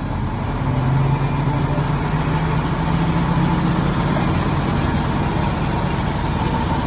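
Heavy diesel engine running steadily, growing louder about a second in and then holding an even drone.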